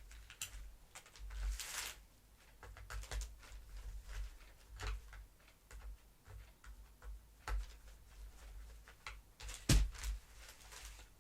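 Irregular light clicks and small knocks of hard plastic vacuum cleaner parts being handled, with one sharper click near the end.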